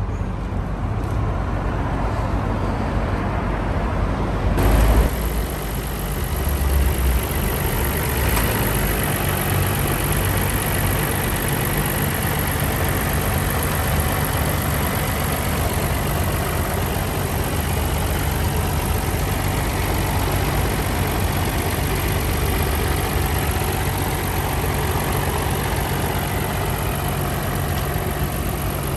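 Nissan Skyline GT-R R34's RB26DETT twin-turbo straight-six idling steadily, with a brief thump about five seconds in.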